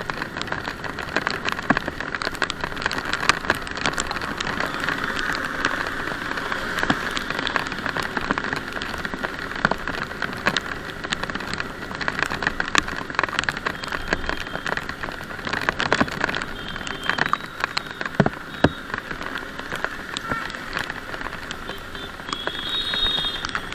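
Rain falling during a motorbike ride: a steady wash of rain with many sharp raindrop ticks close to the microphone. A brief high-pitched tone sounds near the end.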